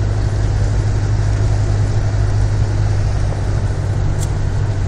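Motor vehicle running with a steady low engine drone and road noise.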